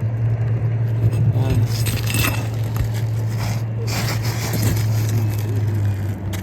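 Thin metal roofing pry bar scraping and clicking under brittle asphalt shingles, which crackle as they break, over a steady low hum from a running machine.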